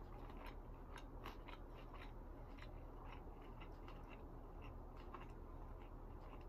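Close-up mouth sounds of chewing a shrimp spring roll: faint, irregular soft clicks and wet smacks, a few each second, over a steady low hum.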